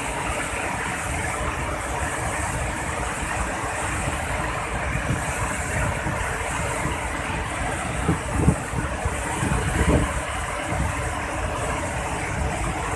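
Waterfall in full rainy-season flow: a steady, loud rushing roar of falling water, with a couple of brief low buffets on the microphone about two-thirds of the way through.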